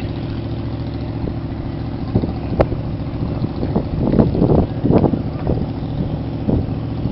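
Steady engine drone with wind on the microphone, with a few brief fainter sounds about four to five seconds in.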